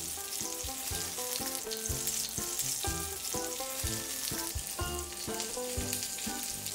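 Brinjal slices sizzling in hot mustard oil on a tawa as they are laid in one by one, with a few light clicks, over background music of short held notes.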